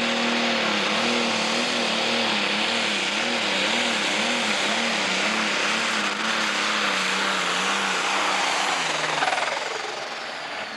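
John Deere Pro Stock pulling tractor's turbocharged diesel engine running flat out under full load down the pulling track. Its pitch wavers up and down about twice a second, and the sound falls away about nine seconds in. The engine sounds clean, with the power well developed, and no longer has the injector foul heard before the run.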